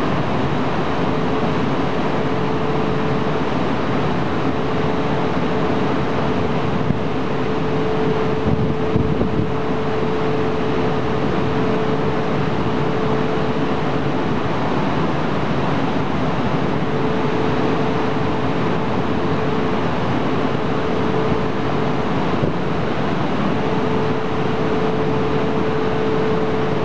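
E4 series double-deck Shinkansen train pulling slowly out of a station: a steady running noise with a faint hum at one pitch that fades in and out.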